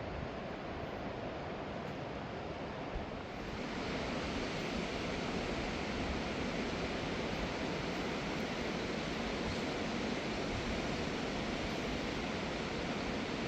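Flowing mountain river water, a steady rushing noise that grows louder and hissier about three and a half seconds in.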